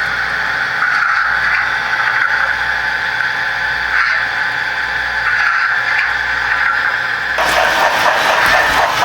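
Märklin HO model train running on the track: a steady whine over a low hum. About seven and a half seconds in, a louder rattling clatter sets in.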